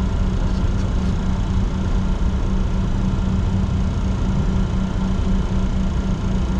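Steady cockpit noise of a Bombardier Challenger 604 taxiing, its turbofans at idle and the APU running: a constant low rumble with one held hum.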